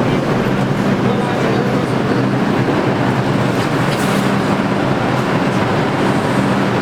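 Steady rumble and low hum inside an R62 New York subway car.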